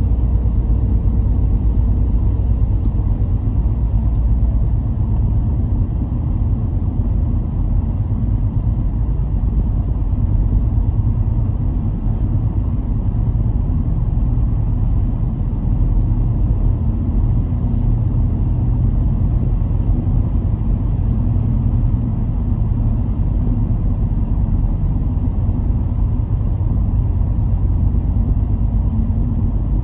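A car driving along at steady speed: a continuous low rumble of engine and road noise with no marked changes.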